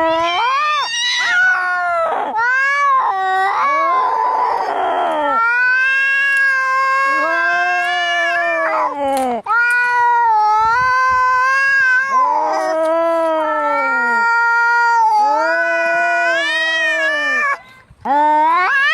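Angry cats caterwauling: long, loud, drawn-out yowls that waver up and down in pitch, one after another, with a harsh noisy outburst about four seconds in.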